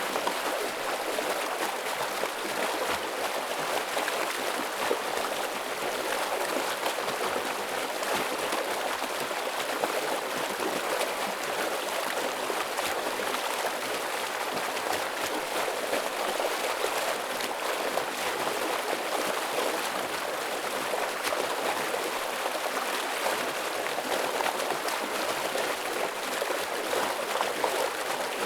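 Heavy stream water rushing and splashing over rocks in a steady, unbroken flow.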